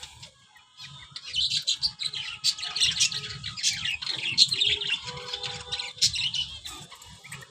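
Many small birds chirping at once in a dense, overlapping chorus that swells about a second in and thins near the end.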